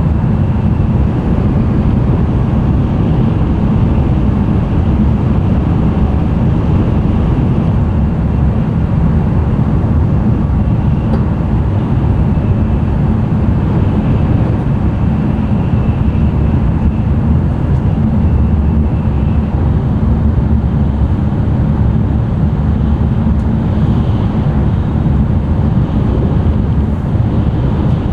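N700-series Shinkansen running noise inside a passenger car: a steady, loud low rumble of wheels on rail, with air noise over it.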